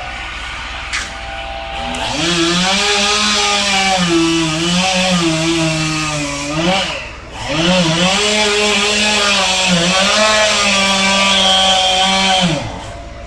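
Two-stroke chainsaw revved up from idle about two seconds in and held at high speed, its pitch wavering and sagging under load as it cuts wood. The throttle is let off briefly around seven seconds in, then opened again. Near the end the throttle is released and the saw drops back to idle.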